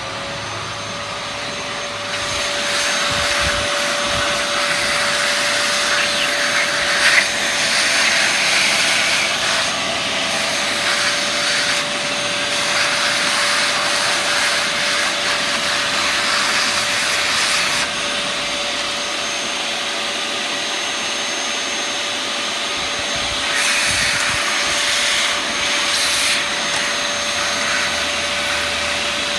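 Vacuum cleaner motor starting up and running steadily with a high whine and a rushing hiss of air, the hiss swelling a little at times as the suction works.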